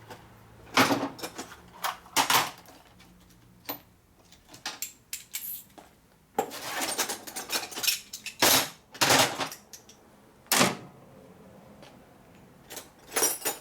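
Small metal bolts and parts clinking and rattling as they are handled: a run of irregular clicks and knocks, with a longer rattle about six seconds in.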